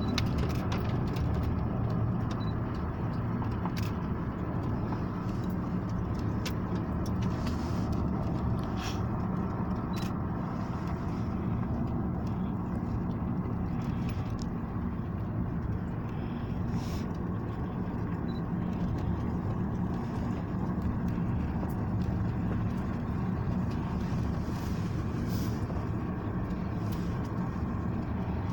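Steady engine and road rumble of a moving car, with a few light clicks and rattles scattered through it.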